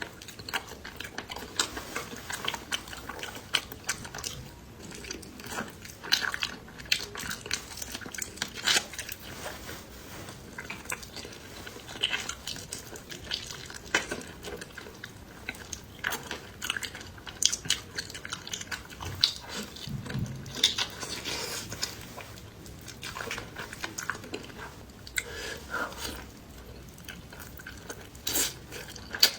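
A person eating close to the microphone: irregular biting, chewing and crunching, with occasional clinks of utensils against a dish.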